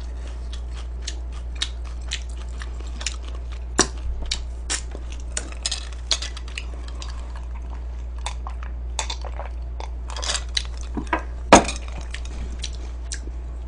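Eating utensils clicking and tapping against dishes in scattered, irregular clicks, with sharper knocks about four seconds in and again near the end, over a steady low hum.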